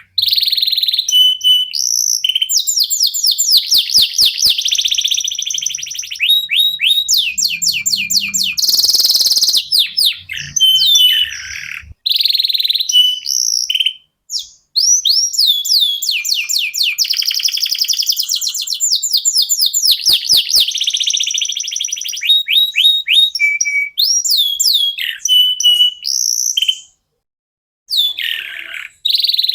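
Domestic canary singing a long, loud song of rapid trills made of quickly repeated falling notes, mixed with chirps and short rolls. The song breaks off briefly twice, about halfway through and near the end.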